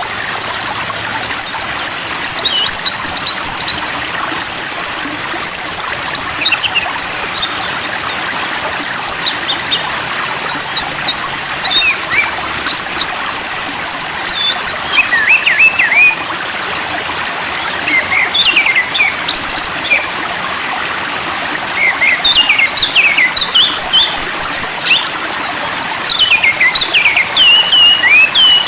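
A songbird calling in quick bursts of high chirps and whistles, each burst a second or two long, over a steady hiss.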